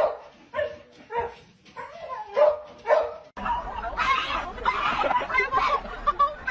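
A dog barking in short, separate barks, about six in a row. A little past halfway the sound cuts abruptly to a denser, louder jumble of noise.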